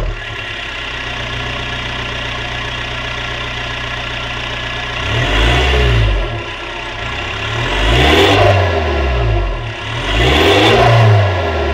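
Turbocharged diesel car engine with a Garrett GT1749VA variable-geometry turbo, idling steadily just after starting. It is then revved three times, each rev rising and falling again, with a faint high whistle sweeping up and down with the revs.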